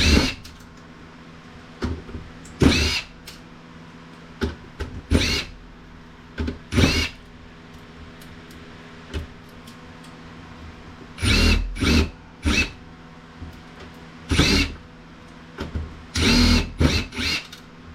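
Handheld power screwdriver spinning in short bursts, about a dozen in all, each under a second, the motor whine bending up and down in pitch as it backs out the screws of a metal KVM switch case.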